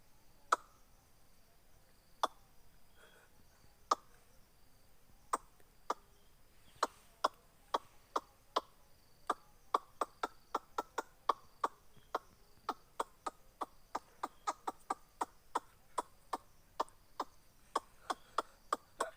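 A series of short, sharp clicks, spaced a second or more apart at first and quickening to two or three a second about halfway through.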